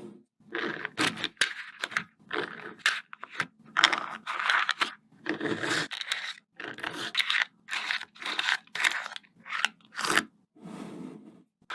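Small coloured magnet balls clicking and scraping against one another in a run of short, irregular bursts as they are handled and snapped together.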